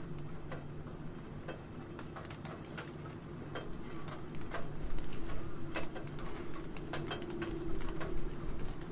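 Computer keyboard typing: irregular keystroke clicks, a few a second, coming faster and louder from about halfway through, over a steady background of rain.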